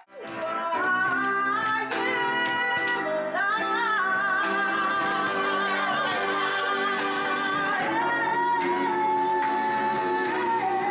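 Gospel singing by several voices in harmony, holding long notes that move together to new pitches every couple of seconds.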